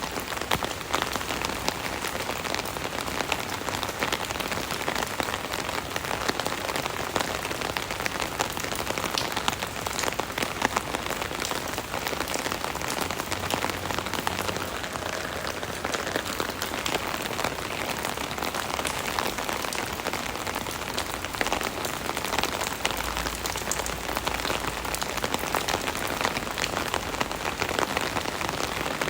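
Steady rain drumming on an umbrella canopy: a dense, continuous patter of many small drop impacts.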